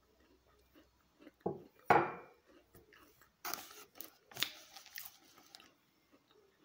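Chocolate chip cookie being bitten and chewed with crunching, several crisp crunches in the second half. Before them, about two seconds in, there is a sharp knock.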